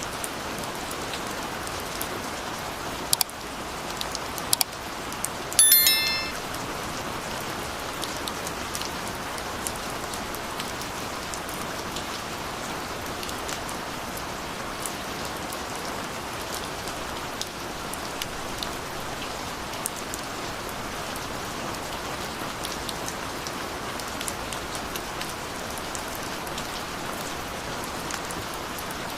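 Steady rain falling on a surface, an even hiss with scattered sharp drop taps. About six seconds in, a brief ringing pitched clink, the loudest sound in the stretch.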